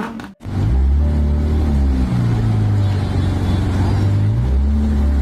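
Car engine running at steady revs, a loud low hum that comes in after a brief drop-out about half a second in and shifts pitch a couple of times.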